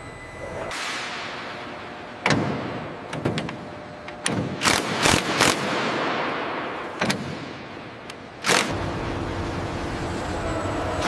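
Assembly-hangar work noise: a hiss that fades, then a series of sharp knocks and bangs, several close together about five seconds in, followed by a steady machine hum.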